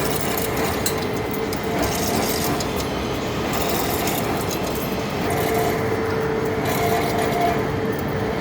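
Heavy-duty lathe turning a large steel part: steady cutting and machine noise with a steady mid-pitched tone, and a higher tone that comes and goes.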